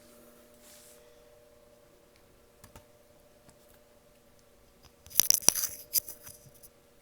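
Wood fire crackling in the fireplace's cast-iron firebox: a few faint pops, then a quick burst of sharp crackles about five seconds in, over a faint steady hum.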